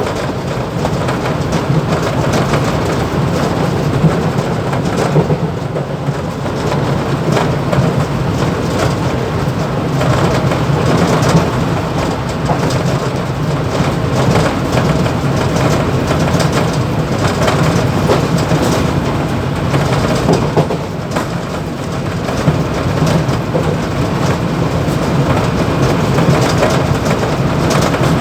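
Mumbai suburban electric local train (EMU) running between stations, heard from the motorman's cab: a steady rumble with dense rattling from the cab's vibration.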